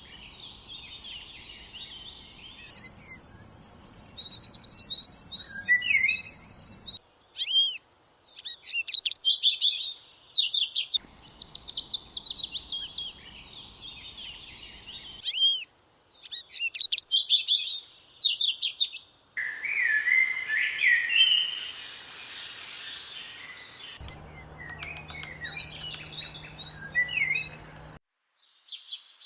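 Small songbirds chirping and calling in quick, high trills and short notes. The background changes abruptly every few seconds, as between spliced recordings.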